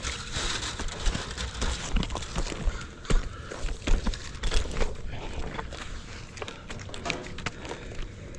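Irregular footsteps and knocks over a steady low rumble.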